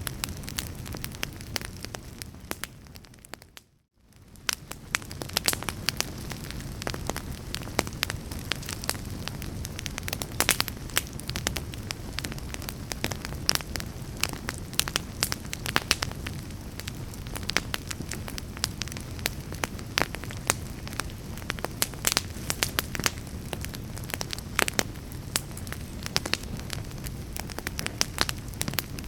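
Fire crackling in a fireplace, with irregular sharp pops over a steady hiss. The sound fades briefly almost to silence about four seconds in, then comes back.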